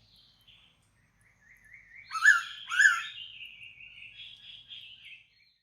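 Mangrove pitta calling: two loud rising-falling notes about half a second apart, with a run of fainter chirps going on around and after them.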